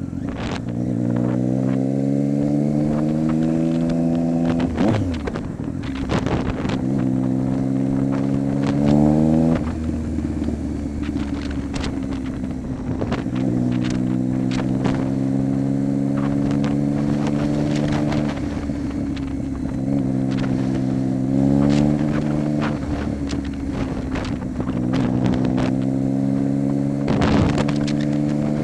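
Triumph Street Triple 675's inline three-cylinder engine running through an aftermarket exhaust with the baffle removed, under way. The revs climb steadily and then drop sharply at each upshift, about five times. Short gusts of wind buffet the microphone.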